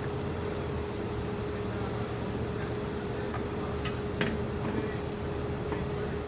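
A motor running steadily: a constant mid-pitched hum over a low rumble, with a few light clicks, cutting off abruptly at the end.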